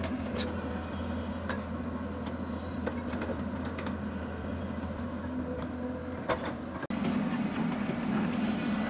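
Hydraulic excavator's diesel engine running steadily under load, with scattered sharp knocks and scrapes from the work. The sound breaks off for an instant about seven seconds in and comes back louder.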